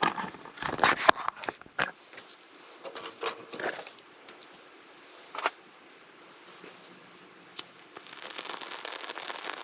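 Knocks and clicks of kindling and fatwood being handled in a small wood stove, thickest in the first couple of seconds. About eight seconds in, a steady crackling hiss sets in as the fatwood fire takes.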